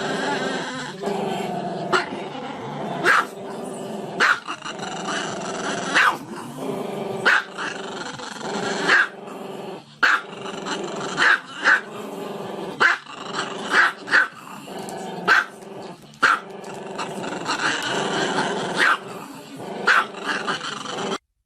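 A dog growling continuously, broken by sharp barks roughly once a second; it cuts off abruptly near the end.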